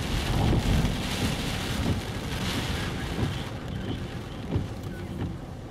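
Wind-driven rain on a moving car, heard from inside the cabin, over the low rumble of tyres on the wet road. The high hiss of the rain eases about three and a half seconds in.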